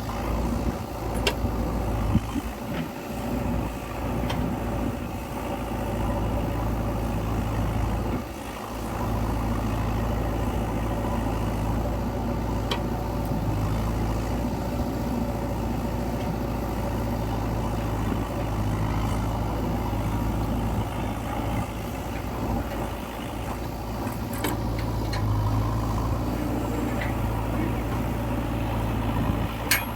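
Diesel engine of a backhoe loader running steadily as it digs and loads mud, with a few sharp clanks and a brief dip in engine sound about eight seconds in.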